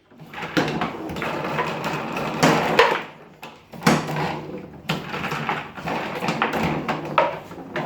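Foosball table in play: the ball and the players on the rods knocking and clacking at irregular intervals, with rods sliding and banging against the table.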